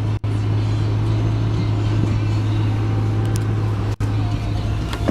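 2000 Chevrolet Camaro SS's 5.7-litre LS1 V8 idling steadily with a low, even drone, broken twice by brief gaps.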